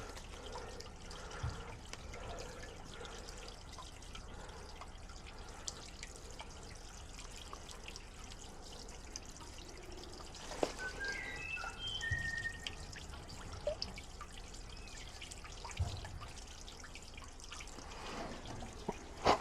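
Faint trickle of water from a tiny waterfall on a slow-moving creek, with a few short, high chirps about eleven seconds in.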